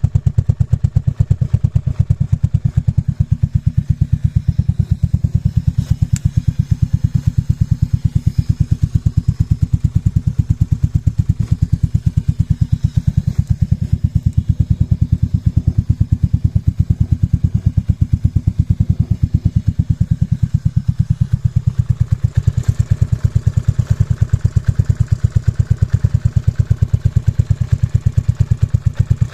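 Aprilia 200 scooter fitted with a 500 Sprint engine, idling with a steady, even pulsing beat.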